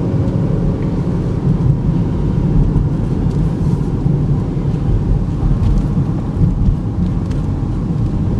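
Steady low rumble of road, tyre and engine noise inside the cabin of a moving 2013 Chevy Equinox with its 2.4-litre four-cylinder, driven smoothly without any rattles or clunks standing out.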